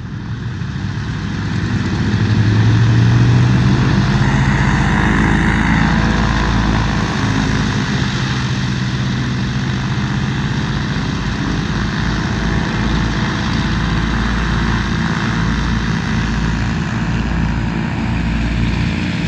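A C-47's twin Pratt & Whitney R-1830 radial engines and propellers throttling up to takeoff power, getting louder over the first three seconds or so, then holding a loud, steady run as the plane starts its takeoff roll.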